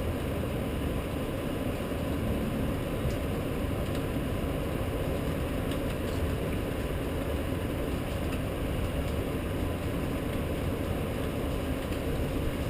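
Steady wash of noise from a rainstorm over the city, heaviest in the low rumble.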